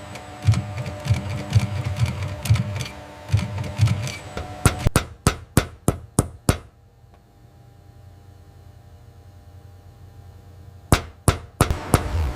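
Machinery thumping in a low uneven rhythm, then a quick run of about eight sharp mechanical knocks, a pause, and four more sharp knocks near the end.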